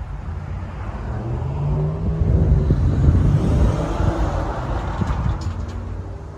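A motor vehicle passing by: its engine rumble swells to a peak about halfway through, then fades away.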